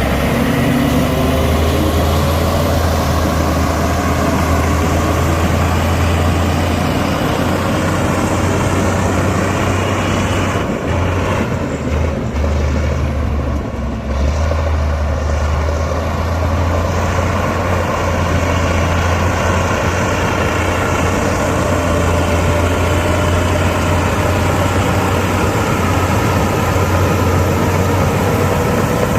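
Heavy diesel engine of earthmoving machinery running under load, a deep steady rumble whose pitch drifts slightly; it eases off briefly about eleven to fourteen seconds in, then picks back up.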